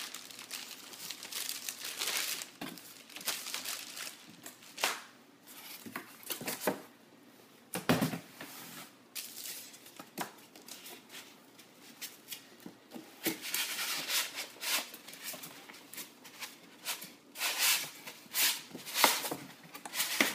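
Packaging being crinkled and handled in irregular rustling bursts as vacuum cleaner parts are unwrapped, with a single heavier knock about eight seconds in.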